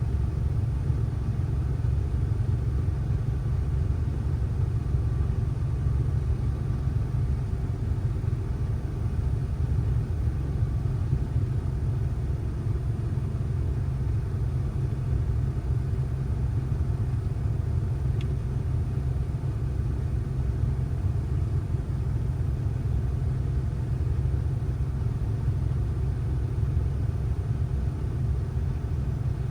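Steady low rumble of a vehicle driving: engine and road noise at an even, unchanging pace, with one faint tick about eighteen seconds in.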